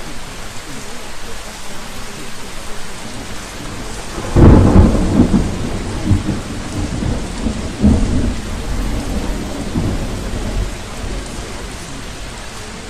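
Steady rain with a roll of thunder that breaks in about four seconds in, surges again near eight seconds and rumbles away.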